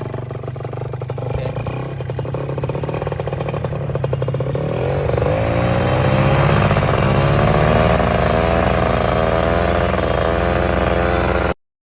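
Small plane's piston engine running, then opening up about five seconds in and held at high revs with the throttle kept wide open. The sound cuts off abruptly near the end.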